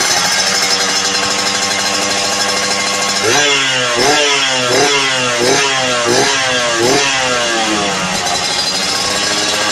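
Yamaha RX-King two-stroke single-cylinder engine breathing through an aftermarket exhaust, idling, then revved in about six quick blips from about three seconds in before settling back to idle.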